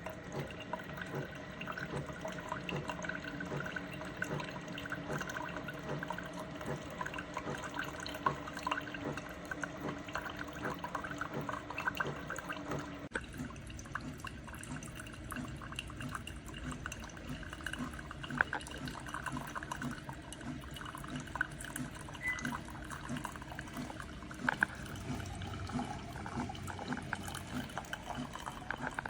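Mecity single-serve coffee maker brewing: hot water gurgling through and coffee running and dripping into the cup, with many small pops and crackles throughout.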